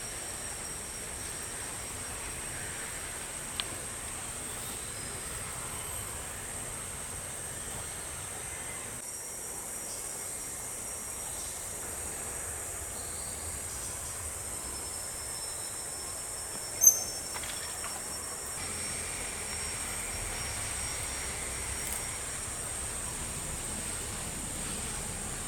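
Steady insect drone, a thin high continuous whine over a soft hiss of outdoor ambience. A faint click comes early and a single sharp knock about two-thirds of the way through.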